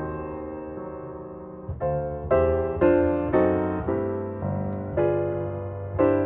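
Background piano music: a slow, gentle piece of struck notes and chords, each fading away. A chord rings out over the first second or two, then new notes come about every half second.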